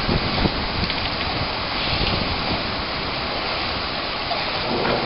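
Rain falling steadily on floodwater and pavement, an even hiss with no break.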